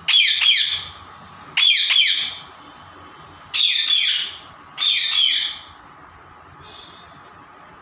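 Parrot squawking: four loud bursts of shrill, rapidly falling screeches, each burst under a second, coming about every one to two seconds and then stopping.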